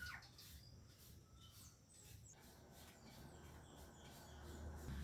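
Faint bird chirps, a few short calls and one falling call near the start, over a quiet background.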